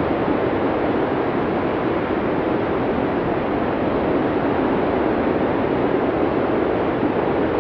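Blizzard wind sound effect: a steady, dense rush of wind at an even level, without gusts or breaks, deepest in the lower middle of the range.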